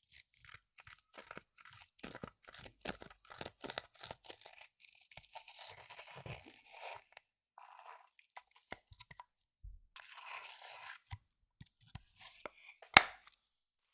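Clear slime being worked by hand, a run of quick sticky crackles and small pops, then two longer crackling stretches, with one sharp loud click about a second before the end.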